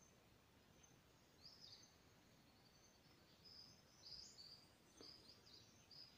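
Faint high-pitched bird chirps and whistles in short clusters, over a background hiss.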